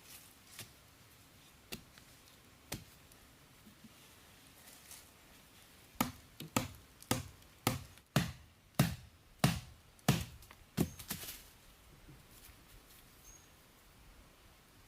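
Chopping with a blade: a few scattered knocks, then from about six seconds in a run of about ten sharp strokes, roughly two a second, lasting about five seconds.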